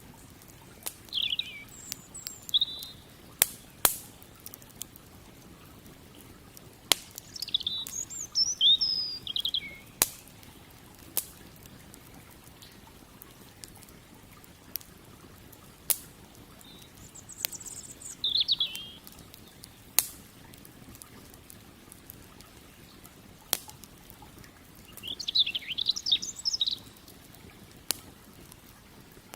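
Wood campfire crackling with sharp, scattered pops, while a songbird sings short bursts of quick chirping phrases four times.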